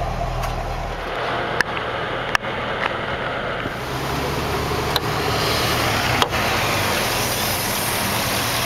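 A 2010 Chevrolet Camaro SS's 6.2-litre LS3 V8 idling steadily, with a few sharp clicks and knocks as the hood is unlatched and raised.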